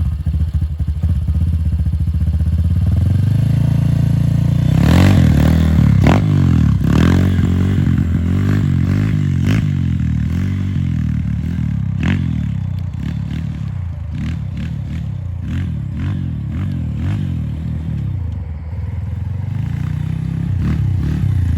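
Dirt bike engine running and being revved unevenly, its pitch rising and falling again and again, with scraping and clattering knocks in the middle stretch. The engine drops off briefly near the end, then picks up again.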